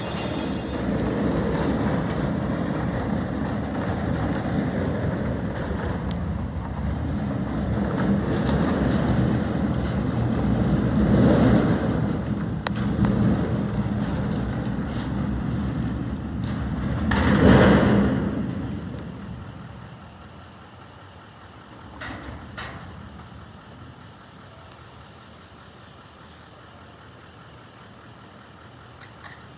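Garbage truck engine running. It swells twice, most loudly just past halfway, then dies away to low background noise with a couple of brief knocks.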